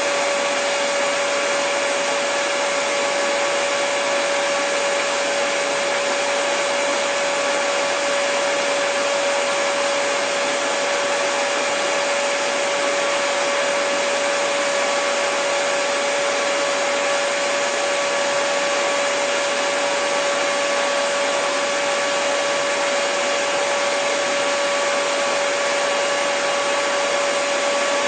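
Handheld hair dryer running steadily: an even rush of blown air with a constant motor whine, unchanging throughout.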